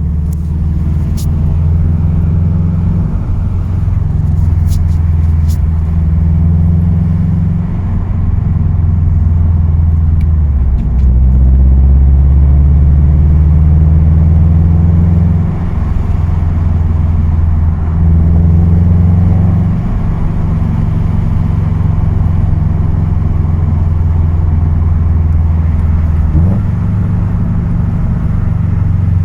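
Car engine running with a low droning note that shifts in pitch several times, with a rattle that is the point of the recording. A few sharp clicks come in the first several seconds.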